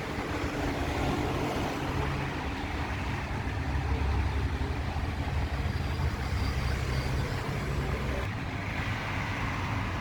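Rumbling thunder, strongest from about four to eight seconds in, with an abrupt change just after eight seconds.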